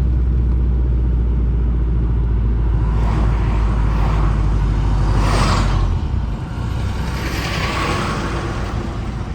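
Subaru WRX's turbocharged flat-four running through a catless downpipe and Tomei catback exhaust, heard from inside the car as it drives: a steady low exhaust drone that drops off about six seconds in as the throttle is lifted. A brief rushing hiss comes just before the drop.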